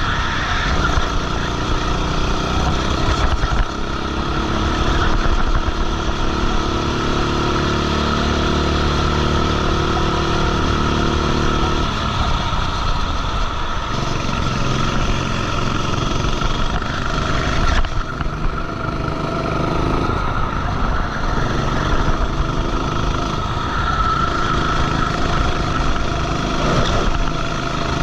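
Racing kart engine heard on board at race pace, its pitch climbing through long pulls and dropping sharply as the throttle is lifted, about twelve and eighteen seconds in.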